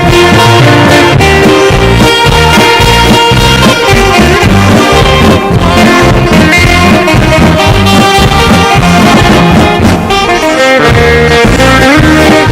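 Live band playing an instrumental in E-flat: saxophone carrying the melody in long held notes over electronic keyboard, guitar and a drum kit keeping a steady beat.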